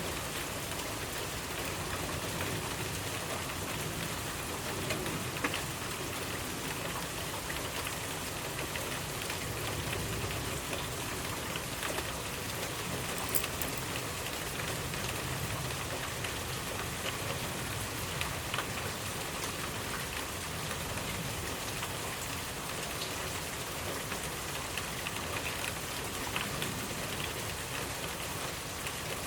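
Steady rainfall, with many individual drops pattering on surfaces.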